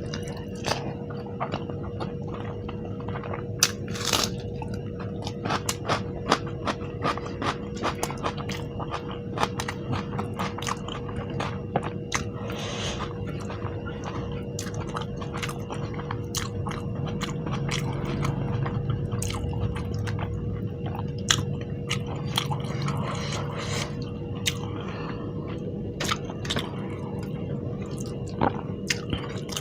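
Close-miked chewing and biting of spicy Indian curry food, with many wet mouth clicks and smacks. A faint steady hum runs underneath.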